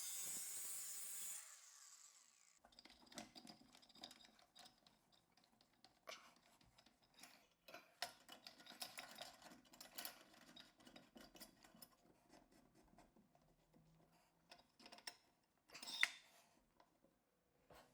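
Faint handling of plastic drain pipe parts: a short scraping hiss at the start, then scattered light clicks and rubs as the pieces are worked, with one sharper click near the end.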